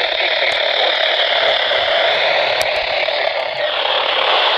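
Heavy static hiss on a radio reception of a National Weather Service warning broadcast, with the announcer's voice faint and buried under it; the hiss changes tone about three and a half seconds in.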